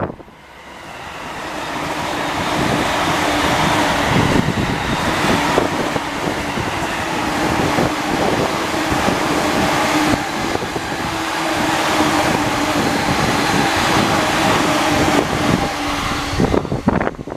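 JR East electric commuter trains, an E235 series passing close by with an E233 series also passing, running at speed: wheels rumbling and clattering on the rails under a steady motor hum. The noise builds over the first couple of seconds and dies away near the end.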